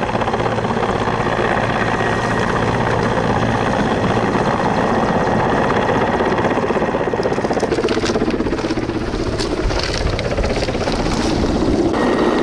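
Helicopter running, its rotor and engine noise steady and loud; the sound changes about seven to eight seconds in, then fills out again near the end.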